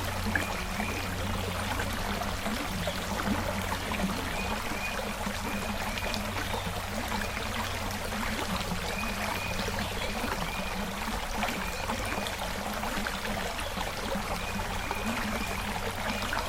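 Creek water running steadily over stones, with short high chirps from a bird, repeated in little groups of two or three every couple of seconds.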